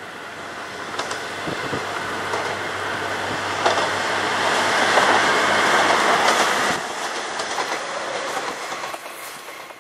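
Kanto Railway diesel railcar train passing by, wheels clicking over rail joints. It grows louder to a peak about five to six seconds in, drops sharply near seven seconds as it goes past, then fades away.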